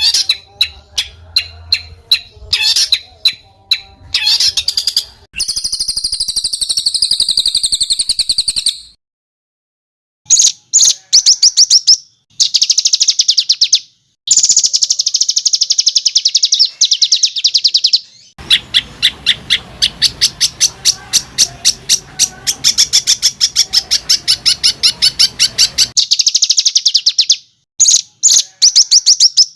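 Songbird singing harsh, rapid rattling rolls, tight rough 'tembakan' trills, in several bursts broken by short silences, with a long steady rattling run in the second half.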